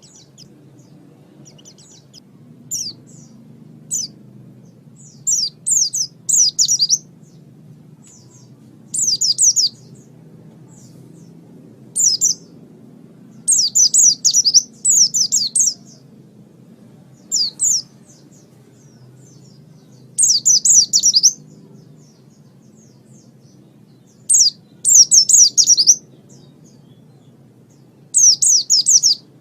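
White-eye (pleci) song from a masteran training recording: short bursts of quick, high, falling chirps every two or three seconds, over a faint steady low hum.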